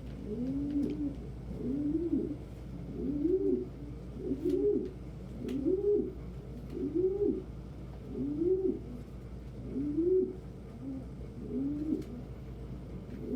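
Domestic pigeons cooing in the loft: a steady run of low coos, each rising and then falling in pitch, about one a second.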